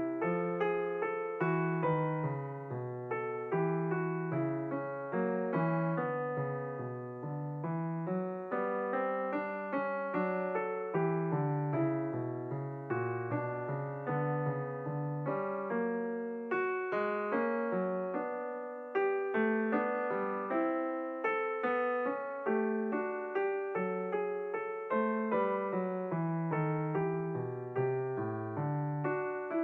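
Background piano music: a steady flow of gently struck notes over a moving bass line.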